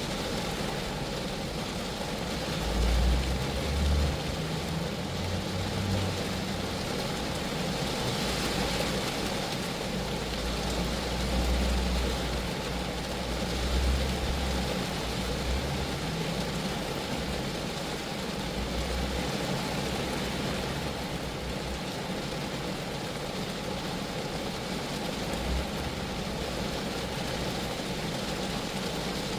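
Steady rain falling on a Geo Metro car, drumming on its metal body and glass. A low rumble comes and goes underneath, loudest a few seconds in and again around the middle.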